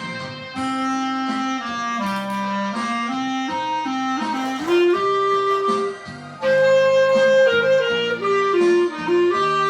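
Clarinet playing a slow melody in sustained, stepwise notes over a musical accompaniment.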